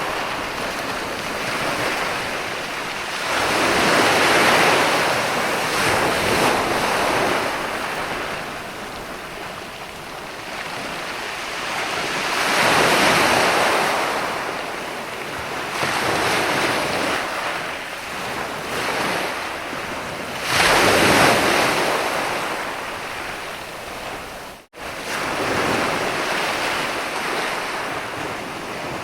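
Sea waves breaking and washing up a beach, the surf swelling and fading in slow surges about every eight or nine seconds. The sound cuts out for a moment about three-quarters of the way through.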